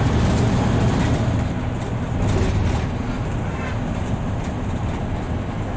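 Diesel bus running on the road, heard from inside the driver's cabin: a steady, loud engine and road rumble.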